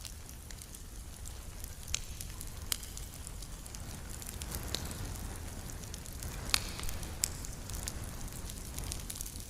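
Wood campfire burning and crackling, with sharp pops at irregular intervals, the loudest about two thirds of the way in, over a steady low rumble.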